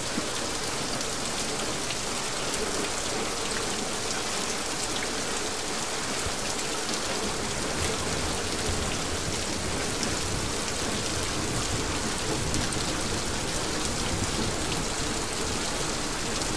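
Heavy rain pouring down steadily: an even hiss of falling water with many small sharp drop ticks.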